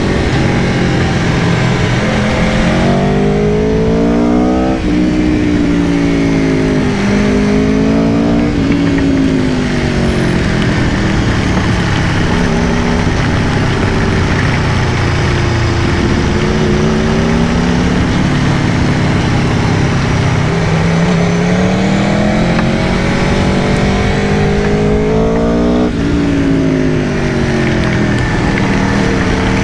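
Aprilia Tuono V4 Factory's 1077 cc V4 engine under way, revs climbing and then dropping sharply at upshifts several times, with a long easing off and a steadier stretch in between, over a steady rush of wind.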